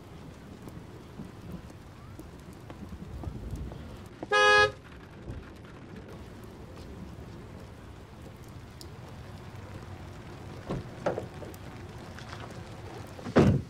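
Steady rain with street traffic, and a single short car-horn toot about four seconds in. A few dull thumps follow later, the loudest just before the end.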